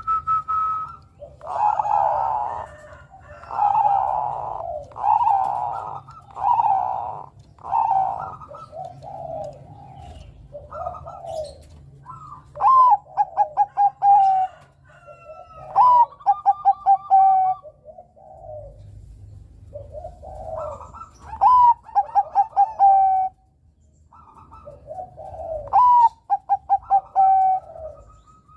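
Zebra dove (perkutut, Bangkok type) singing. Several rolling coos come first, then about four song phrases, each a high opening note followed by a quick run of short, evenly spaced coos.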